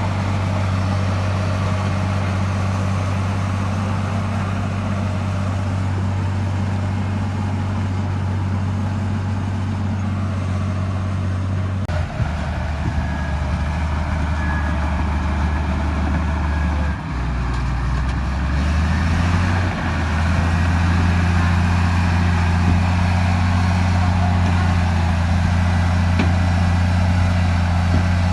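A bulldozer's diesel engine running under load. Its low note drops about twelve seconds in, shifts again a few seconds later, then picks up and runs louder for the last third.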